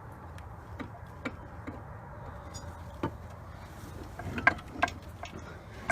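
Scattered light metallic clicks and knocks of parts and hand tools being worked while lining up an engine and transmission, with two louder knocks past the middle, over a steady low hum.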